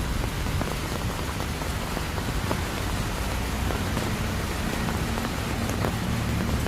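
Steady rain falling, with scattered individual drops ticking on surfaces. A low steady hum joins about halfway through.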